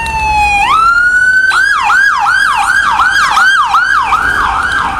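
Emergency vehicle siren, loud: a slow wail falling in pitch that turns and rises about half a second in, then switches about a second and a half in to a fast yelp of roughly two to three sweeps a second.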